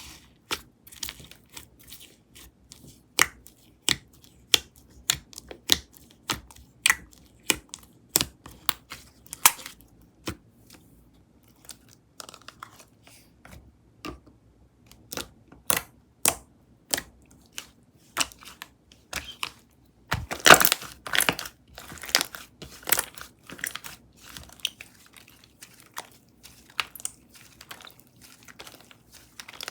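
Strawberry cookie whipped-cream slime being pressed and stretched by hand, giving irregular sharp pops and clicks, about one or two a second. About two-thirds of the way through there is a louder, denser run of crackles.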